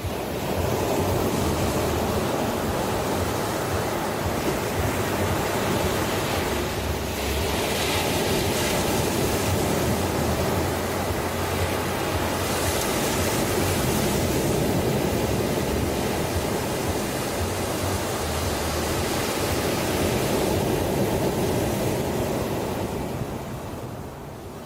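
Ocean waves breaking and washing ashore: a continuous surf hiss that swells about 8 seconds in and again around 13 seconds, then eases near the end.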